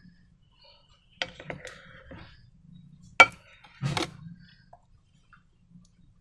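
A few sharp clicks and taps from small objects being handled, the loudest about three seconds in, followed by a short rustling burst a second later.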